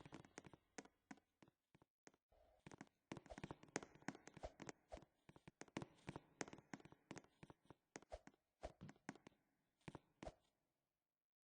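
Near silence with faint, irregular clicks and taps, stopping shortly before the end.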